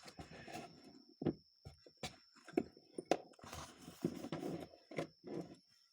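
Small carburetor parts being handled and searched through: scattered light clicks and knocks with bouts of rustling.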